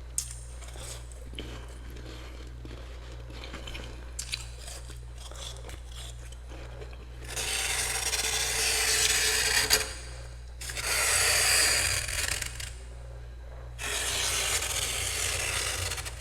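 A spoon scraping thick freezer frost in three long strokes, each about two seconds, the first starting about seven seconds in. Before them there are only faint small clicks and scratches.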